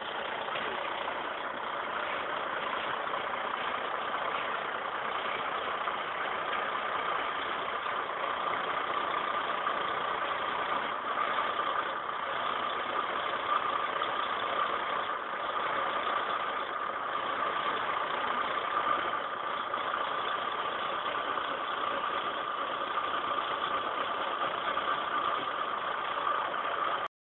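Tractor engine running steadily, with a steady whine over it; it cuts off suddenly near the end.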